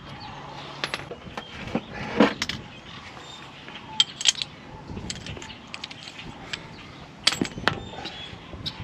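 Irregular metallic clinks and knocks of hand tools and parts being handled while working on a truck's front wheel hub. The sharpest knocks come about two seconds in, twice around four seconds, and in a pair past seven seconds.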